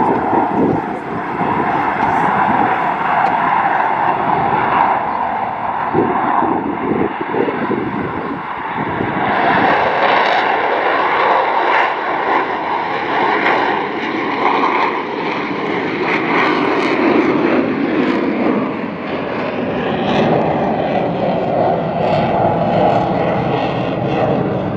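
A pair of Boeing F/A-18 Super Hornet jets flying a slow, nose-high high-alpha pass: loud, steady jet engine noise with a whine in it, the pitch dropping slightly near the end as they go by.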